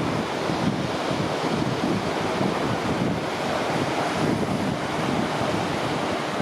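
Surf washing steadily onto a sandy beach, with wind rumbling on the microphone.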